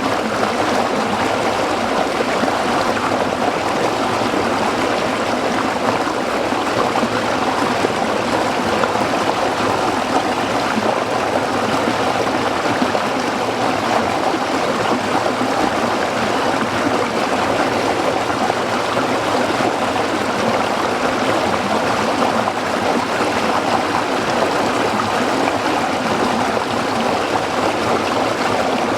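A small stream running over rocks, a steady babbling and splashing of water.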